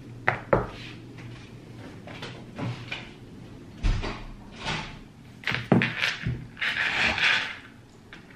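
Knocks and clicks of things being handled, with a stretch of rustling near the end.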